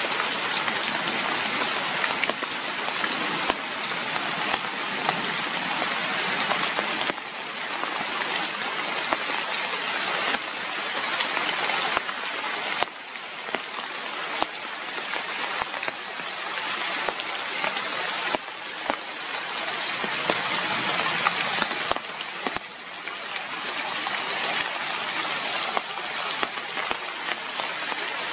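Steady rain falling, a dense hiss of drops pattering on leaves and surfaces. The level jumps up or down abruptly a few times.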